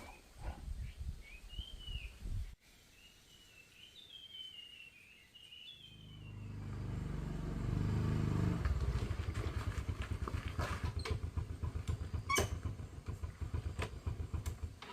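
Small birds chirping, then a motorbike engine comes in from about six seconds in, growing louder and then running with a fast, steady putter.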